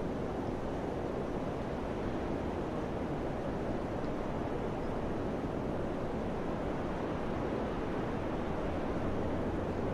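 Wind blowing steadily, an even rushing noise without distinct gusts.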